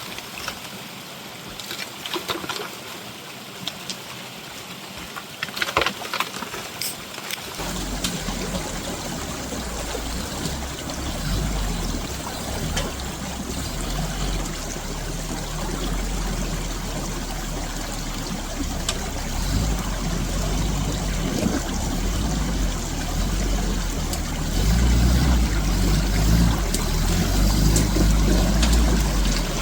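Off-road 4x4 engine running with running water. The low rumble comes in suddenly about seven seconds in and grows louder toward the end, after a quieter stretch with a few sharp knocks.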